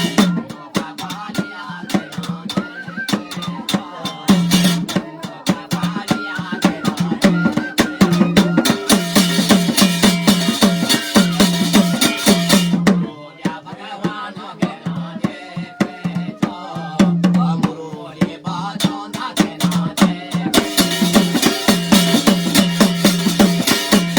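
Instrumental passage of Garhwali jagar folk music: fast, steady drumming with a jingling, rattling percussion layer that drops out and comes back twice.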